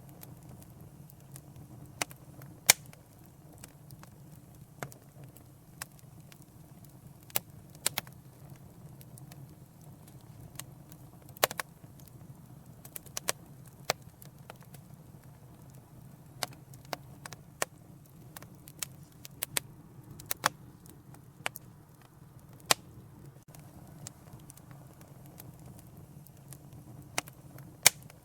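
Wood fire in a fireplace crackling, with irregular sharp pops and snaps, a few much louder than the rest, over a steady low rumble of the flames.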